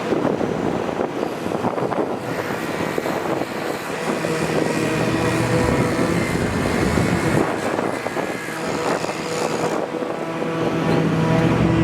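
A motor engine running steadily amid general mechanical noise, its hum growing stronger near the end.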